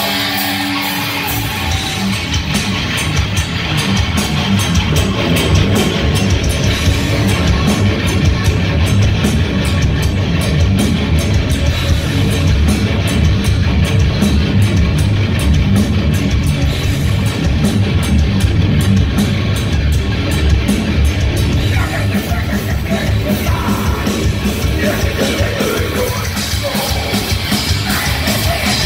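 Live heavy metal band playing loud and fast: distorted electric guitars, bass and drum kit, with a sustained guitar chord at the start before the full band comes in.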